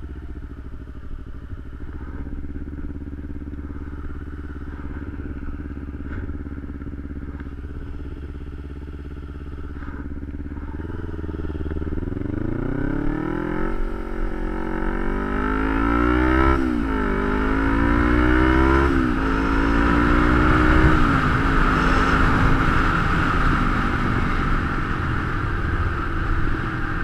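Kawasaki Ninja 250's parallel-twin engine idling steadily at a stop, then pulling away about eleven seconds in, revs rising and dropping back through about three upshifts as the bike accelerates. Once it is up to speed, wind rush on the helmet-mounted camera builds over the engine.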